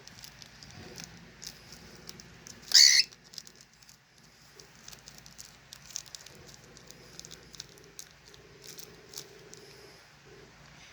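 A cockatiel's single short, shrill call a little under three seconds in, the loudest sound here, among scattered light clicks and scratches.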